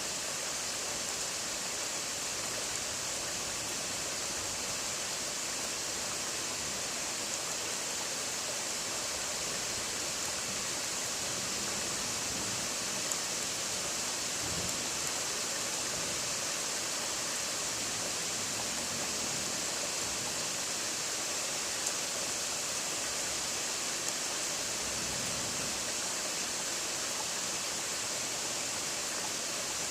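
Steady hiss of rain falling, even throughout, with a couple of faint low rumbles around the middle.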